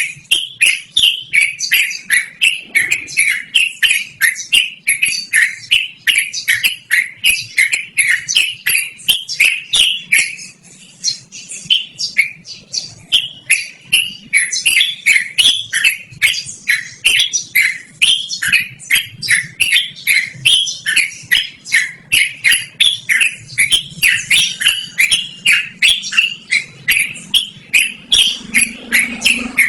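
Yellow-vented bulbul (trucukan) singing on and on in a loud, rapid stream of bubbly, chattering phrases. The song eases briefly a third of the way in, then picks up again.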